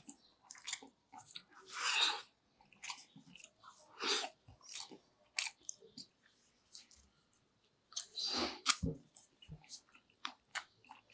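Close-up chewing and mouth clicks of a person eating ginataang pako, fiddlehead ferns and pork belly stewed in coconut milk. Among the irregular clicks come a few louder bursts, about two, four and eight and a half seconds in.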